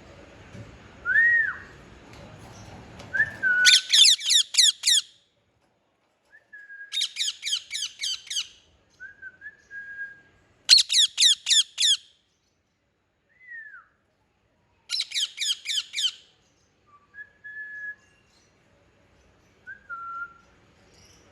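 Parrot calling: four bursts of rapid, shrill repeated notes, with short whistled slurs in the pauses between them.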